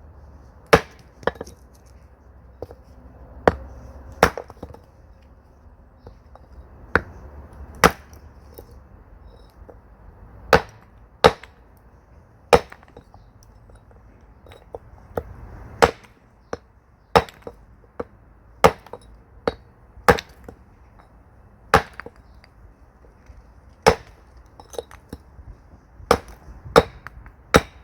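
Axe blows splitting firewood: about two dozen sharp cracks at irregular intervals, often about a second apart.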